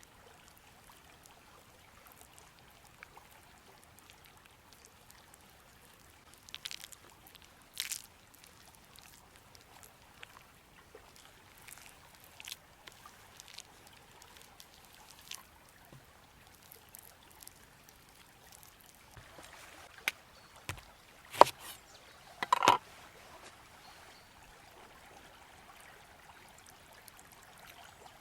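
River flowing steadily, with scattered short clicks and knocks of handling close by; the loudest knocks come in a cluster about three-quarters of the way through.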